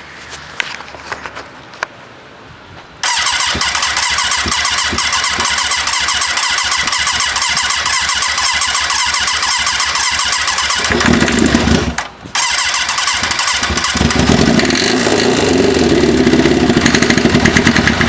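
K112 engine cranking, then catching and running roughly on ether, with no fuel getting through. It dies briefly about twelve seconds in, catches again and keeps running until it cuts out at the end.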